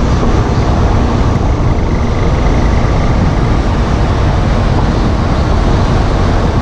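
Steady loud road and running noise of a 2014 Volkswagen Golf GTI Mk7 on the move. A faint high tone comes in briefly about two seconds in.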